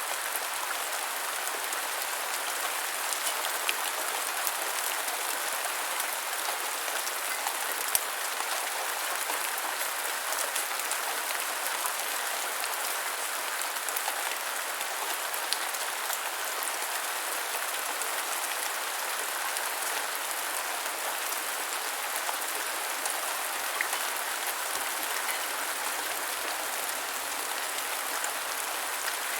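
Steady gentle rainfall: an even hiss of rain with occasional single louder drops.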